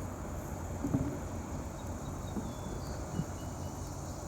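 Steady rushing noise of wind and river water around a kayak on the water, with a soft bump about a second in.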